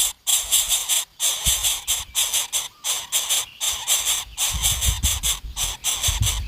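Coucal nestlings giving rapid, raspy hissing calls, a quick string of short rasps several times a second, with a few low thuds.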